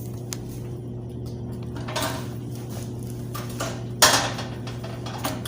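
Handling of food and tableware at a meal: scattered clicks and clatter, with a sudden loud rustling crack about four seconds in, over a steady low hum.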